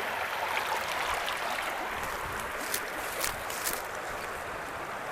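Steady rush of flowing river water, with a few short sharp sounds near the middle.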